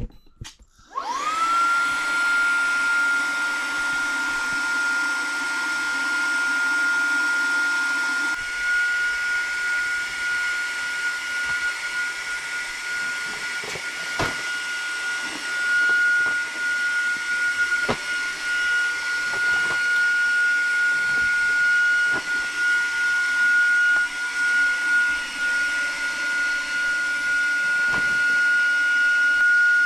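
Electric air pump starting up about a second in and running steadily with a high whine as it inflates the air beams of an inflatable tent; a few light knocks sound over it.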